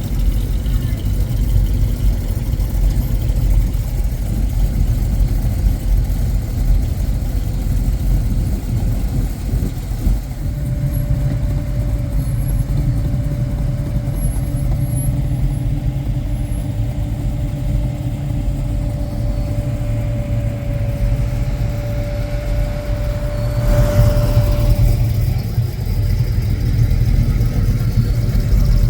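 Classic car engines rumbling as the cars idle and move slowly, a steady low running sound that shifts about ten seconds in and swells briefly around twenty-four seconds.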